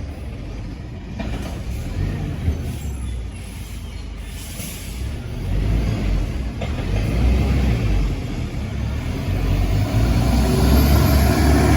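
Garbage truck engine rumbling, growing louder through the second half as the truck comes closer, with a steady whine joining in near the end.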